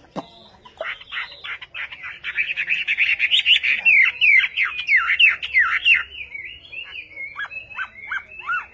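Hwamei singing a loud, varied song: a fast run of warbled notes, then a series of downslurred whistles, and from about seven seconds in a string of repeated short falling notes.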